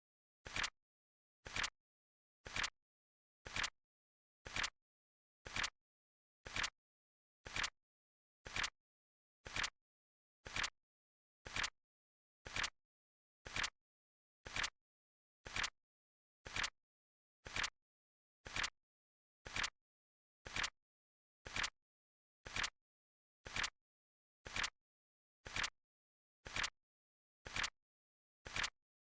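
Flip clock timer sound effect: a short, sharp flip click once every second, evenly spaced, with silence between.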